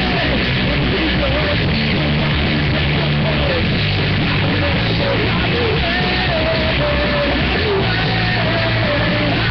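Live rock band playing a loud song, with a sung vocal line over the band, recorded through a webcam microphone that does not capture the sound well.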